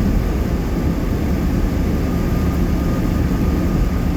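Steady road noise of a car driving on a wet highway, heard from inside the cabin: a low, even rumble of tyres and engine.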